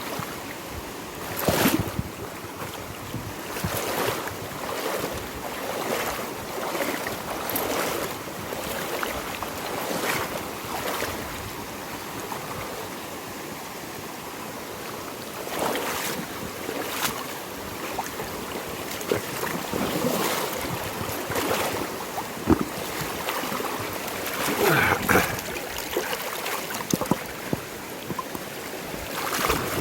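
Flowing river water with wind on the microphone, broken by occasional short, sharper sounds, the loudest about a second and a half in, around 22 seconds and around 25 seconds.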